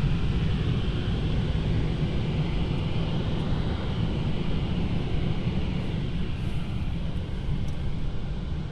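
Automatic car wash air dryer blowers running, a steady rushing noise heard from inside the car, beginning to fade near the end.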